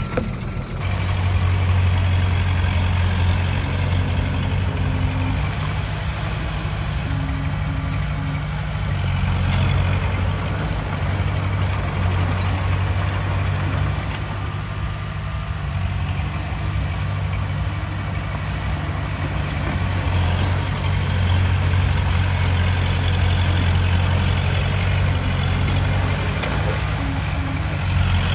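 Diesel engine of heavy earthmoving machinery running steadily as a continuous low drone, with the loudness swelling and easing slightly.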